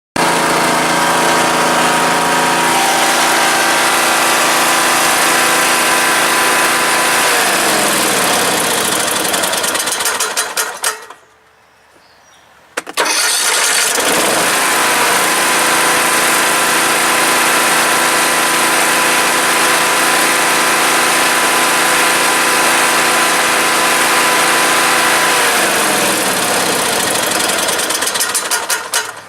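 20 HP Kohler Courage engine on a riding mower running steadily, then shut off: its pitch falls as it coasts down and it rattles for about a second before stopping. It is started again about 13 seconds in, runs steadily, and is shut off a second time near the end with the same rattle as it winds down, a rattle the owner is concerned about.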